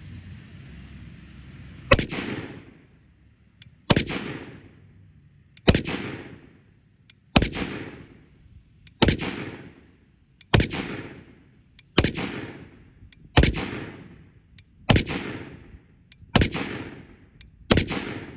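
Semi-automatic .308 rifle firing 7.62×51 mm NATO rounds: eleven single shots about one and a half to two seconds apart, starting about two seconds in, each followed by a short fading echo.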